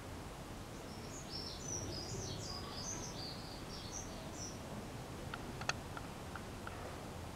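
A small bird chirping a quick run of short, high notes for about three and a half seconds, over a steady low background rumble. A few faint clicks follow near the end.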